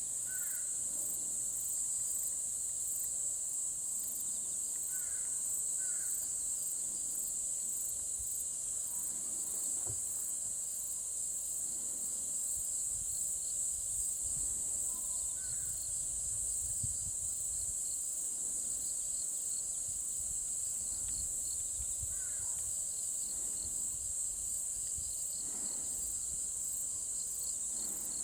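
A steady, high-pitched insect chorus with a regular pulsing higher still. A few brief, faint bird chirps come now and then.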